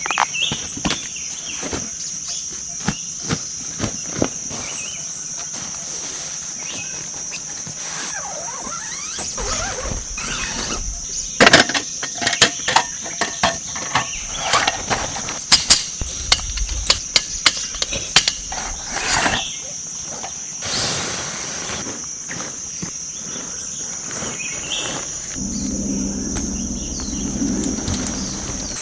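Insects droning steadily at a high pitch, with scattered clicks and knocks over it and a low hum for a few seconds near the end.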